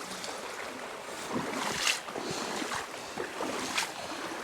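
Shallow creek water running over bedrock, with sharper splashes about two seconds and four seconds in as someone wades through it.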